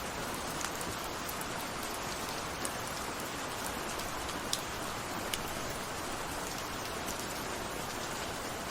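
Steady rain falling, an even hiss with scattered individual drop ticks, the clearest a little past halfway.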